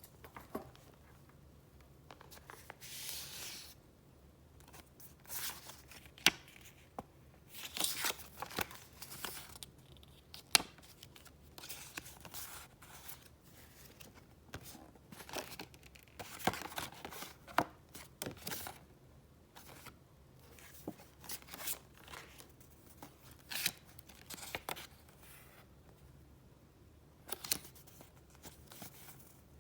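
Close-up paper handling: sheets of paper rustling and crinkling in irregular bursts, with sharp clicks and taps in between as pieces are picked up, moved and set down.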